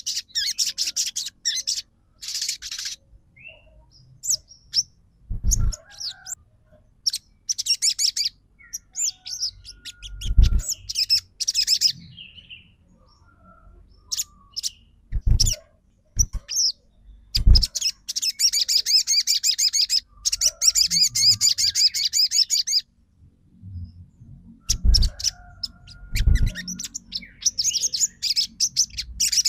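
Sogon (crimson sunbird) singing in bursts of rapid, high twittering and trills, with one long trill lasting several seconds past the middle. Several short low thumps fall between the phrases.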